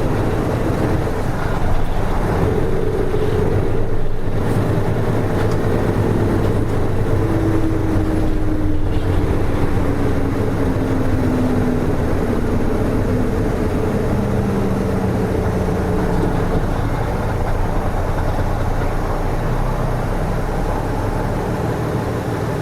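Nissan Diesel RM medium-size diesel bus driving, heard from inside the passenger cabin: a steady engine rumble with a drivetrain whine that slides down in pitch through the middle as the bus eases off.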